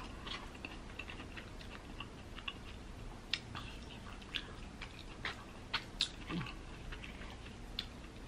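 A person chewing a mouthful of chicken burrito bowl close to the microphone: soft, wet mouth clicks and smacks, with a few sharper clicks scattered through.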